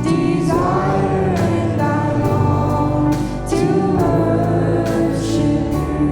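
Church worship music: voices singing long, held phrases over steady instrumental accompaniment.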